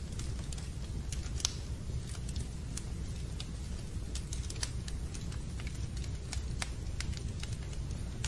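Wood fire crackling in a fireplace: irregular sharp pops and snaps, one louder about a second and a half in, over a steady low rumble.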